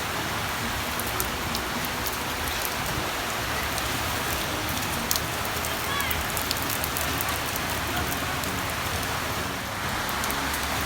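Heavy storm rain falling steadily, with many sharp ticks of drops striking surfaces.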